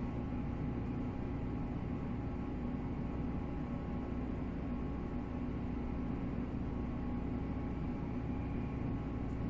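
Running sound inside a 485 series electric multiple unit: the MT54 traction motors hum with several steady tones over the rumble of wheels on rail, with no change in pitch.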